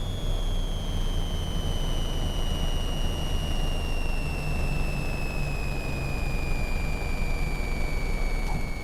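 Cabin noise of a Cessna 414A's twin turbocharged piston engines running steadily at reduced landing power, a low rumble with a high whine that slowly falls in pitch.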